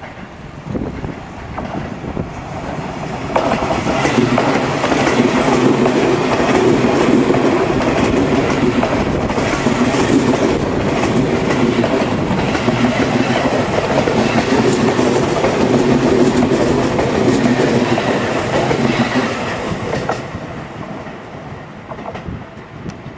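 Seibu 20000 series electric commuter train passing close by, its wheels clacking over the rail joints with a steady rumble. It grows louder over the first few seconds, stays loud while the cars go by, and drops off about three seconds before the end.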